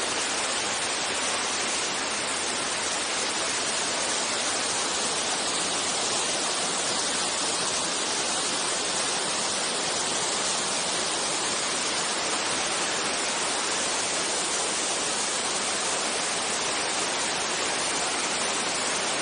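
A large waterfall pouring, a steady, unbroken rush of falling water.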